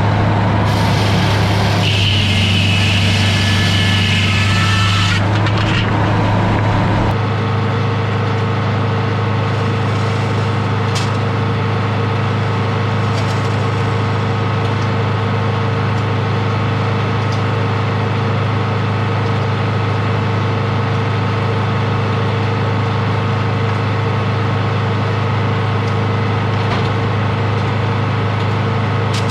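Edmiston hydraulic circle sawmill running: its power unit drones steadily, and for the first few seconds the circular blade cuts through a log with a high, hissing sawing sound. The cut stops about five seconds in, leaving the engine and the spinning blade running steadily.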